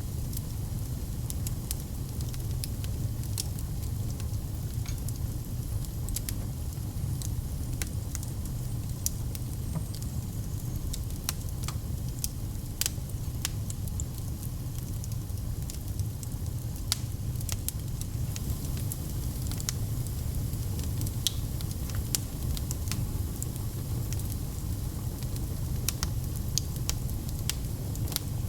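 Log fire burning: a steady low rumble with sharp crackles and pops at irregular intervals.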